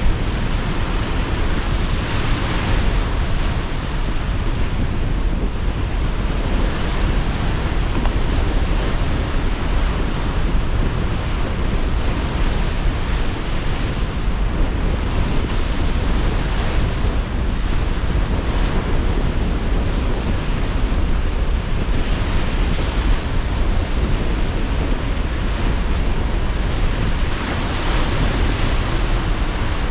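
Sea surf breaking and washing onshore under a strong, steady wind, with deep wind rumble and gentle swells in the hiss every few seconds.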